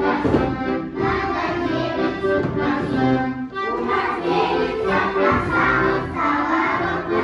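Accordion music playing a Russian folk-style tune.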